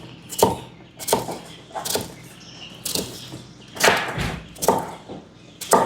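Kitchen knife chopping potato into small cubes on a cutting board, about seven knocks at an uneven pace of roughly one a second.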